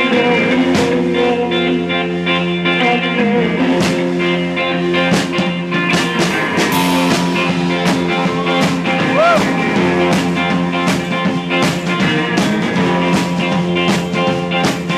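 Live blues-rock band playing an instrumental passage: electric guitar over a steady beat of regular drum hits, with no vocals.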